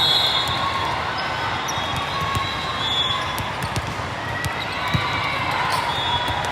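Volleyball gym during play: balls thumping on the court floor, many short knocks, brief high squeaks, and crowd chatter in a large hall.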